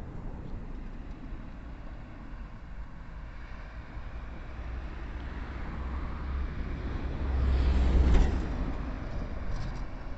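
A car passing by: a low rumble and road noise build to a peak about eight seconds in, then fade away.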